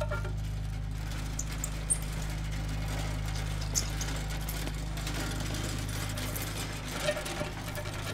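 A steady low hum with a faint hiss above it and a few scattered faint clicks.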